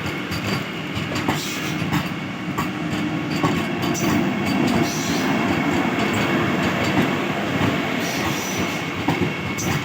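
Vande Bharat Express electric train set running on the track: a steady rumble of wheels on rail with scattered clicks over rail joints and a thin steady whine above it.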